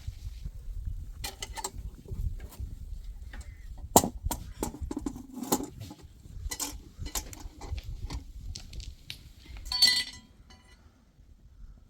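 Irregular knocks and clinks over a low rumble, the sharpest knock about four seconds in, and a short ringing clink about ten seconds in.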